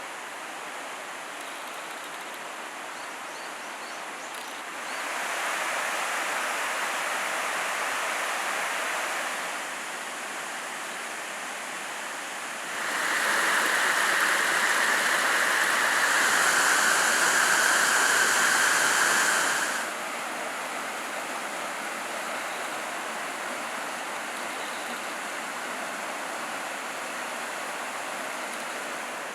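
Rain-swollen mountain stream rushing over rocks in a steady, even wash of water. It gets louder twice for a few seconds, once about five seconds in and again from about thirteen to twenty seconds.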